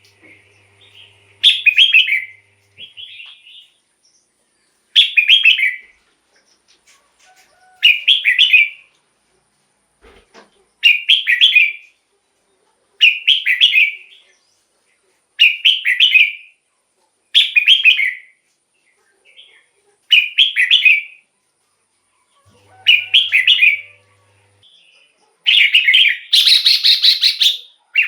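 Red-whiskered bulbul singing: short, bright warbled phrases repeated every two to three seconds, with a longer, louder phrase near the end.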